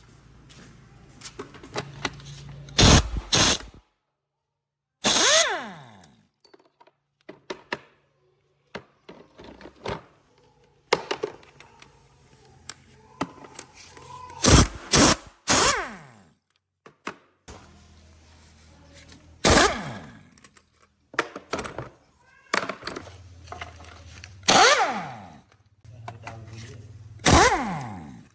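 Metal clanks and knocks of tools and parts being struck or set down, about a dozen separate sharp hits, each with a brief ringing tail, broken by a few sudden dead-silent gaps.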